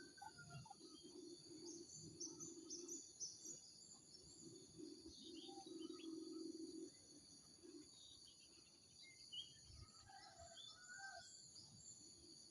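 Faint, scattered chirps of small birds over a steady high-pitched background drone.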